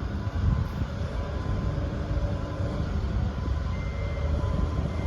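Steady low rumble of vehicles passing at a railroad grade crossing, with a faint high tone heard briefly twice in the second half.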